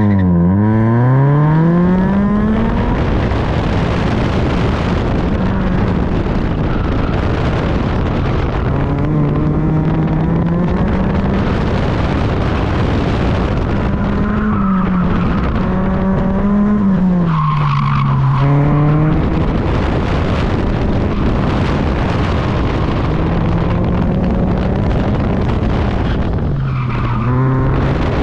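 A Toyota sports car's engine driven hard on an autocross course: it drops in revs and then climbs as the car launches at the start, then rises and falls over and over with the throttle and braking through the corners. Tyres scrub and squeal under hard cornering, over steady road and wind noise through the open driver's window.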